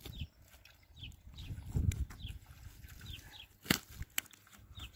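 A bird calling over and over with short, high, falling chirps, over low rumbles. There is a sharp click a little under four seconds in and a smaller one just after.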